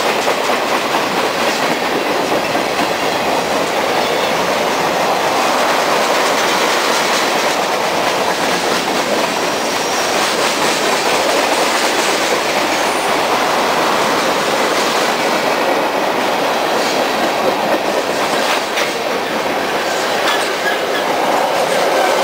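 Norfolk Southern freight train of tank cars and boxcars rolling past close by: a steady noise of steel wheels on the rail, with scattered sharp clicks mostly in the second half.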